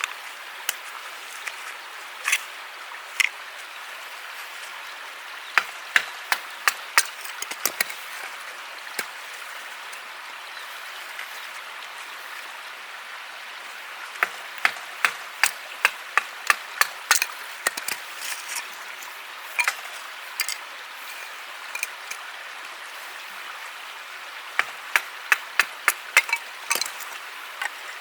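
Bursts of sharp taps or clicks, about three a second, coming in three runs of a few seconds each, over a steady faint hiss.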